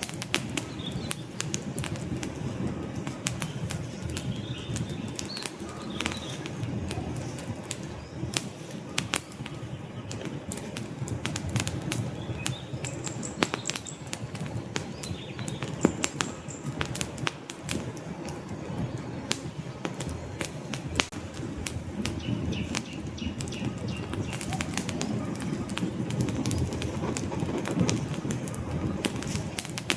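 Log fire crackling in a fireplace: frequent sharp pops and snaps over a steady low rush of burning flame.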